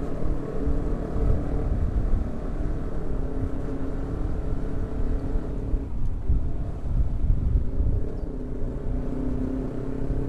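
Yamaha R15 V3 sport motorcycle's single-cylinder engine running on the move, its note shifting a little in pitch, over a heavy low rumble.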